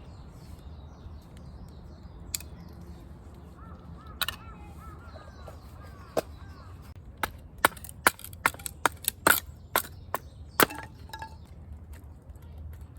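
Sharp wooden knocks of firewood being chopped or split: a few spaced strikes, then a quick run of about a dozen in some four seconds.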